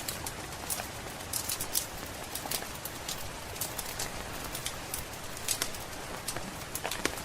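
Wood fire crackling in a fireplace, with irregular sharp pops and snaps over a steady hiss of rain.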